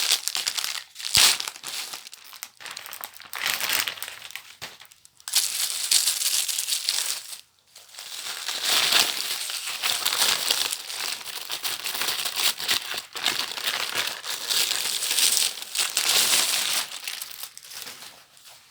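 Paper packaging crinkling and rustling as a mail-order book parcel is unwrapped by hand, in uneven stretches with short pauses, the longest pause about seven and a half seconds in.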